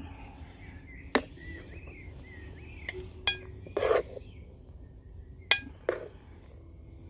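Metal serving utensils clinking and scraping against a pan and plate as curry and rice are dished up. There are three sharp clinks with a brief metallic ring, and a couple of short scrapes in between.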